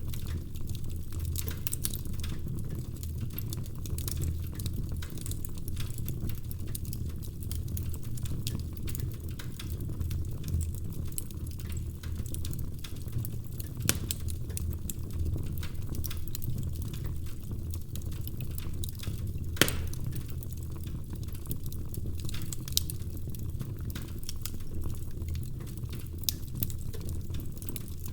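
Logs burning in a fireplace, crackling with frequent small snaps over a low steady rumble, and a few louder pops, the sharpest about twenty seconds in.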